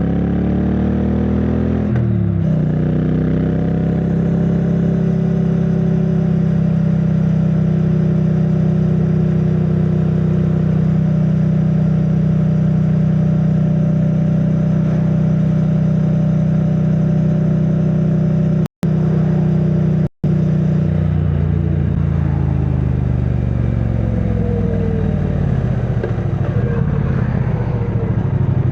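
2022 Triumph Bonneville T100's parallel-twin engine through its stock exhaust, heard from the rider's backpack: it pulls up in pitch, shifts up about two seconds in, and then runs steadily at cruising speed. Over the last several seconds the engine note falls as the bike slows. The sound cuts out twice for an instant near the middle.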